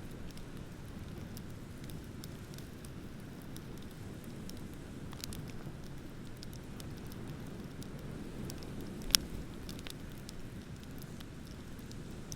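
Wood bonfire crackling with scattered small pops, and one sharp, loud pop about nine seconds in, over a steady low rush of ocean waves.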